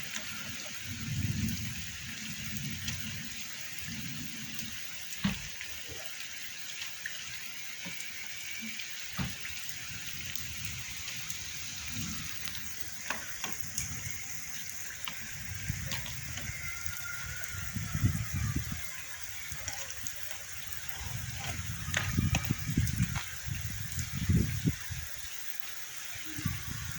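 Steady rain falling, a continuous hiss with scattered sharp drop taps. Irregular low rumbling swells come and go, stronger in the second half.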